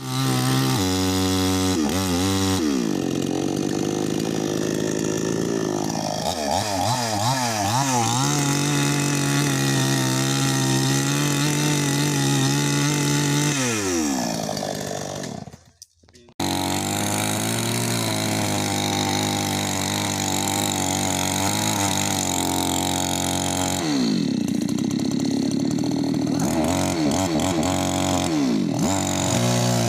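Chainsaw engine running and cutting, its pitch rising and falling with the throttle. About halfway through it winds down and stops for a moment, then runs again.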